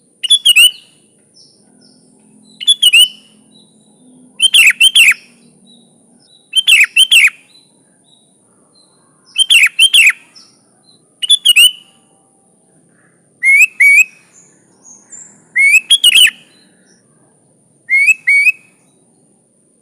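Sooty-headed bulbul singing loud, short chirpy phrases of quick rising and falling notes, about nine phrases roughly two seconds apart.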